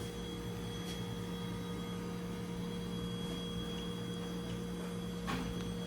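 Steady electrical hum of a small shop's refrigerated display cases, with a faint click about a second in and another near the end.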